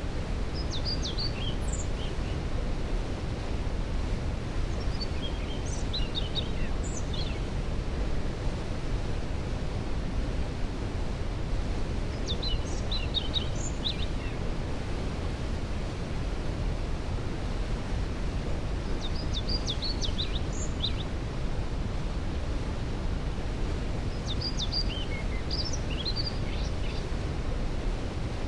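Waterfall's steady rush of falling water, with a songbird singing short phrases of quick, high notes five times, about every six seconds.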